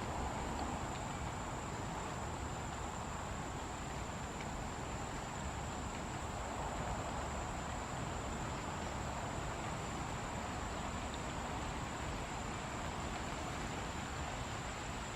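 Steady insect chorus: a constant high-pitched drone over a soft, even background hiss.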